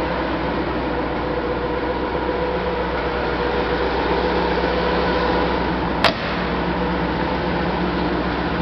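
1990 Chevrolet Corvette ZR-1's LT5 32-valve V8 idling steadily with no revving, and a single sharp click about six seconds in.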